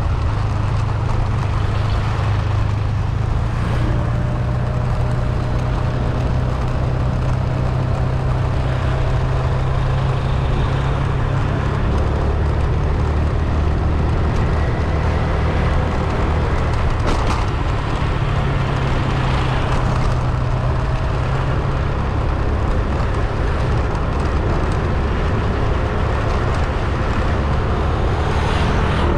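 A car being driven: a steady low engine drone under road noise, shifting in pitch a couple of times as the speed changes.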